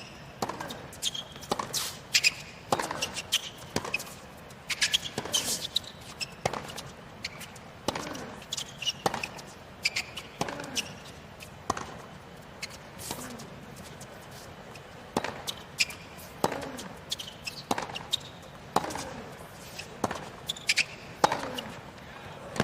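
Tennis rally on a hard court: sharp, irregular knocks of racket strings hitting the ball and the ball bouncing, about one every half second to second.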